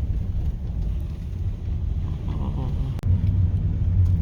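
Low, steady rumble of a car driving, engine and road noise, with a brief click and dip about three seconds in.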